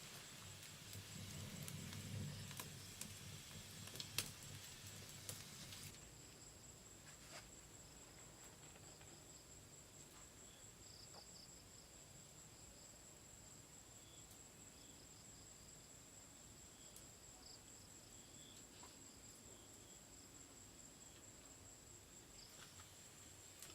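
Faint insects in rainforest: a steady high-pitched drone with scattered small chirps. In the first six seconds there are also a few sharp clicks over a low rumble, which then stop abruptly.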